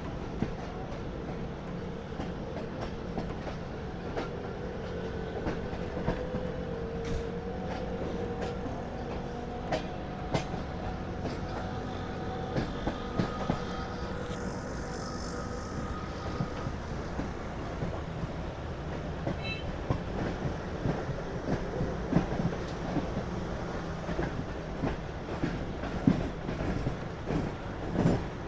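Moving passenger train: a steady rumble with irregular clicks and knocks of the wheels over the rail joints, and faint thin squeals now and then.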